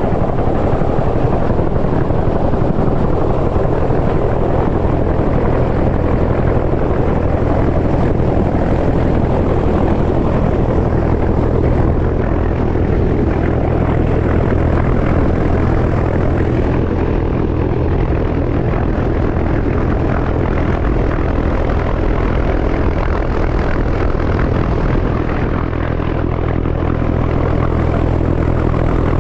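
Helicopter in flight: loud, steady rotor and engine noise with a constant low drone.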